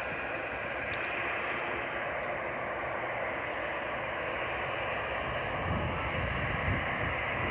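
Airliner engines running with a steady rushing noise, with low rumbling that builds near the end.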